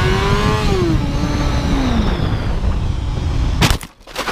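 Motorcycle engine revving up, then easing off in falling steps, over a heavy low rumble. Near the end come a loud sharp crash and a few further knocks.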